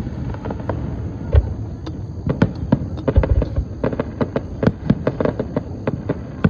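Fireworks going off: a few deep booms among many sharp cracks in quick, irregular succession, the cracks coming thicker from about two seconds in.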